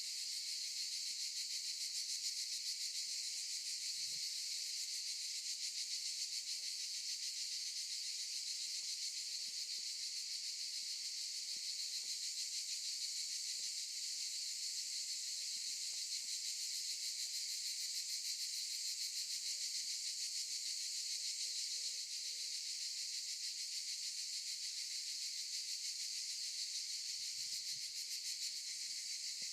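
A chorus of cicadas buzzing steadily in a continuous high-pitched drone.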